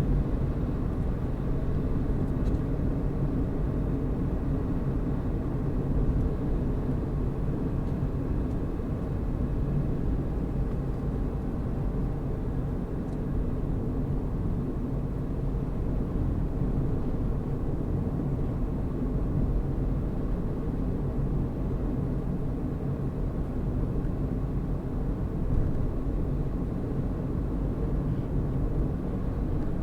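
Steady engine hum and road noise from a vehicle driving along at an even pace.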